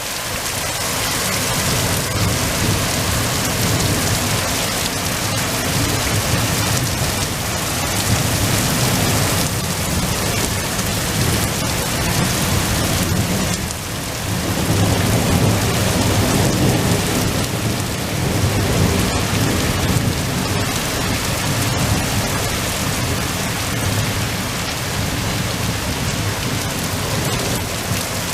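Heavy rain pouring down steadily in a thunderstorm, with thunder rumbling low underneath. The rumble eases for a moment about halfway through, then swells again.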